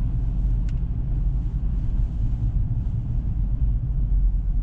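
Ford Ranger pickup's diesel engine and tyres making a steady low rumble while driving, heard from inside the cab. The diesel is a little noisy.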